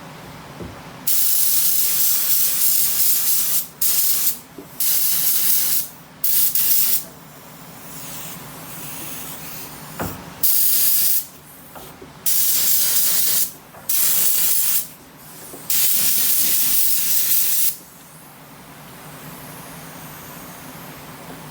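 Small touch-up paint spray gun hissing in a series of about eight short trigger pulls, each a burst of compressed-air spray lasting from half a second to two seconds, with short pauses between them.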